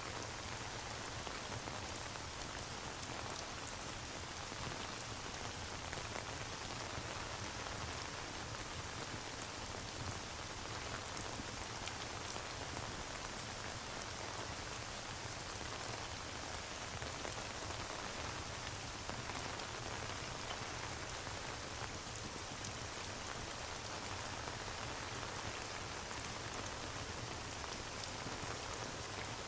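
Steady rain ambience: an even hiss of rainfall with faint scattered ticks of drops.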